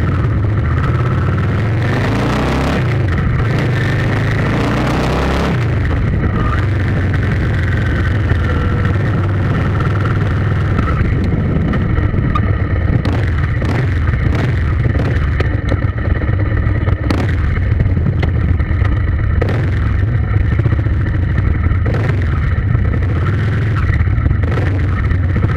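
A motor vehicle running with a steady low rumble, changing pitch briefly between about two and five seconds in.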